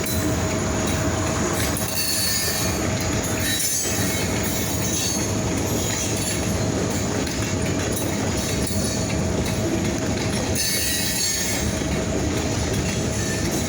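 Freight train rolling past, its wheels running steadily on the rails with a thin, continuous wheel squeal over the rumble.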